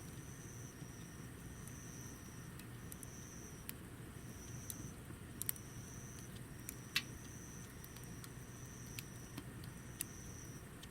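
Sharp, scattered crackles from wood burning in a homemade wood stove over a low steady rush. An insect calls in repeated high-pitched bursts about once a second.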